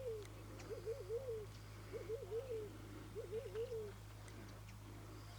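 A dove cooing in a repeated phrase of several wavering notes, a phrase roughly every second and a bit, stopping about four seconds in.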